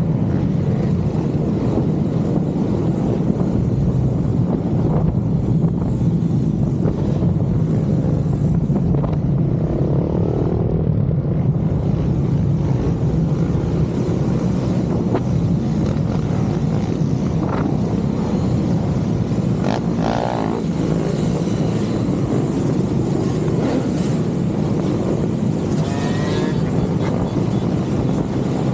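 Motorcycle engine running at a steady cruise, a continuous low drone with wind rush over the microphone.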